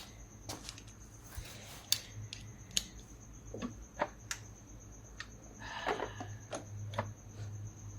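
Irregular metallic clicks and taps of a 10 mm socket and ratchet being worked on an engine bolt, with a brief cluster of scraping knocks about three quarters of the way through.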